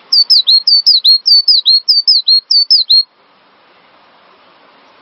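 Cinereous tit (gelatik batu) singing a fast, repeated two-note phrase of high, downward-sliding whistles for about three seconds, then stopping. A faint steady hiss lies underneath.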